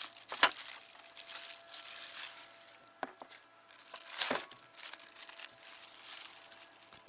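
Crinkly wrapping being handled during meat preparation: irregular crinkling and rustling with a few sharp clicks, the loudest about half a second in and again about four seconds in.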